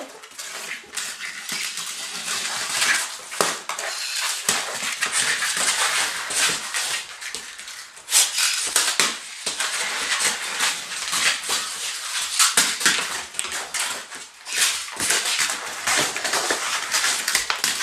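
A smooth fox terrier tussling with a toy spider: continuous scratching and scrabbling with many sharp clattering knocks.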